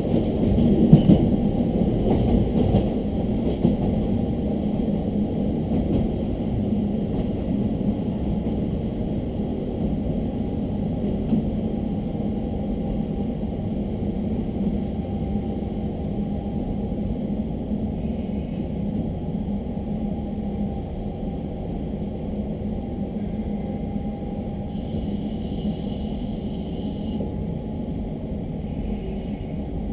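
Steady running noise of a diesel railcar heard from on board: a low engine drone mixed with wheel and rail rumble.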